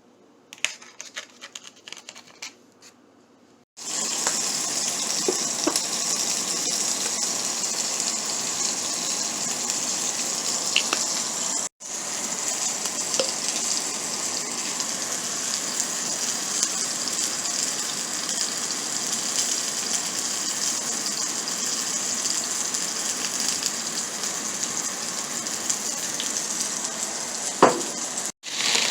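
Food frying with a steady hiss and sizzle, likely burger meat in a hot pan. It starts about four seconds in after a few faint handling clicks and is broken twice by short cuts.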